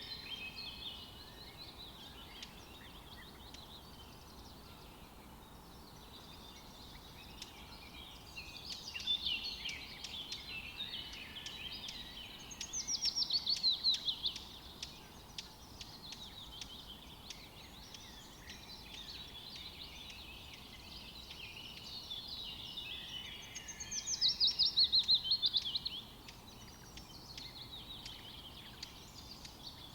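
Songbirds chirping and singing, with a loud, fast trill that falls in pitch twice, each lasting about one and a half to two seconds.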